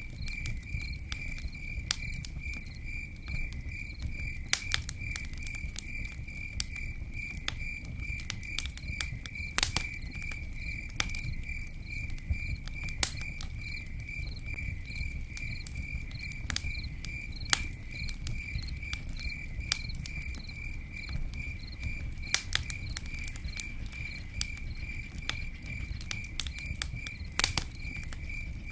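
Campfire crackling, with sharp pops scattered irregularly over a low rumble; two of the pops, about ten seconds in and near the end, are louder than the rest. Behind it a cricket chirps steadily in an even, high-pitched pulse of about three chirps a second.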